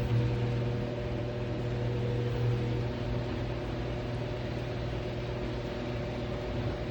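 Garage door opener motor running steadily with a low hum and whir as the door travels.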